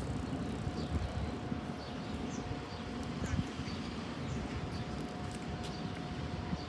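Electric passenger train pulling away: a low rumble under a steady hum. Small birds chirp on and off.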